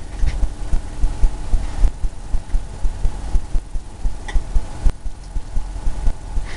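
Rapid, irregular low thumps and knocks, several a second, from a paintbrush or palette knife working against the canvas and palette.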